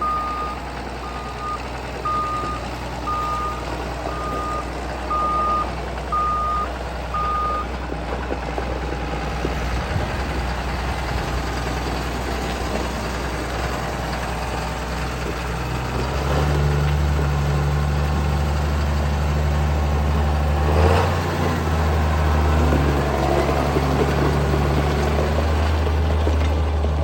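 John Deere 7520 tractor's diesel engine running steadily while a reversing alarm beeps about once a second, stopping about 8 s in. About 16 s in the engine gets louder, and a single knock sounds about 21 s in.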